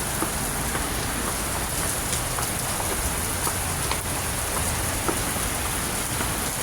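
Heavy rain pouring down, a steady dense hiss with scattered sharp drop hits on nearby surfaces.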